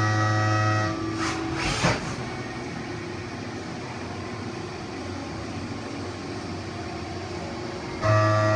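Haas VF-2SS CNC mill running: a steady pitched whine stops about a second in, followed by a short hiss and a steady, quieter rushing noise, with the whine coming back near the end.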